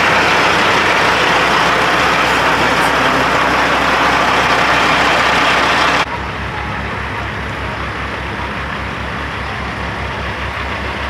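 Semi truck diesel engine running, loud with a broad rushing noise over a steady low rumble. About six seconds in the sound drops abruptly to a quieter, even low throb of an idling diesel.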